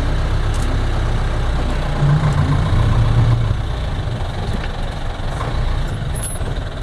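Vehicle engine running steadily, growing louder for about a second and a half about two seconds in.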